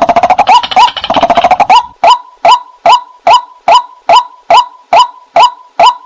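White-breasted waterhen calls: a rapid jumble of quick notes for the first two seconds, then a steady run of short repeated 'kwak' notes at about two and a half a second.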